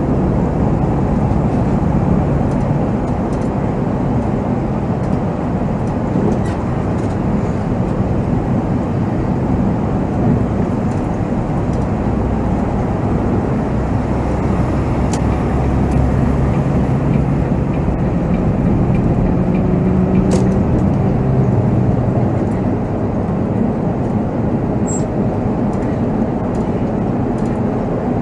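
Volvo B7R coach driving, heard from the cab: a steady diesel engine drone and road noise, with the engine note shifting slowly as speed changes. There are a few light clicks and rattles.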